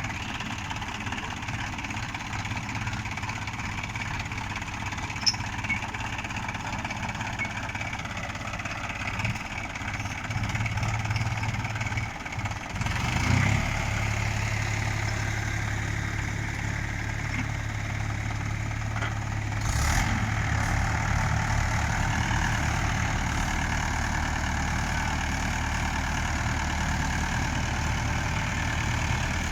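Tractor engine idling steadily. It dips briefly about twelve seconds in, then runs a little louder, and its low note changes about twenty seconds in.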